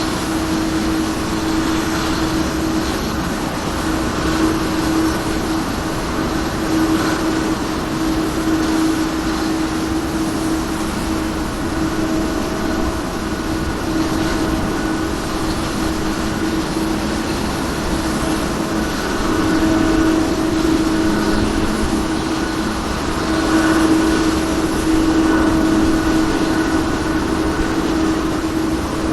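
Pratt & Whitney jet engines of a Boeing 777-200ER running during engine start: a steady rush of jet noise with a low held tone that swells and fades every few seconds, and a fainter higher whine.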